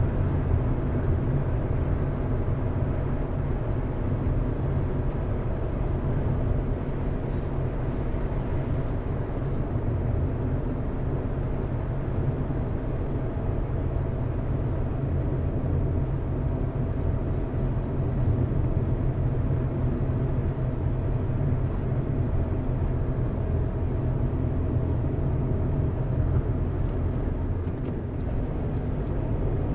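A car driving at a steady pace, with a low, even rumble of engine and tyres on the road and a faint steady hum over it.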